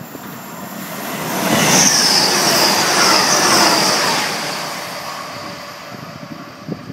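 A train passing through the station: a rush of wheel and rail noise that builds to a peak about two seconds in and slowly fades, with a high-pitched squeal over it.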